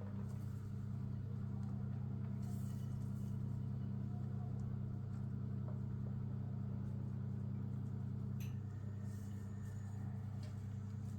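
A steady low mechanical hum, like a kitchen appliance's motor or fan, with a few faint clicks and knocks. The hum drops slightly after a click near the end.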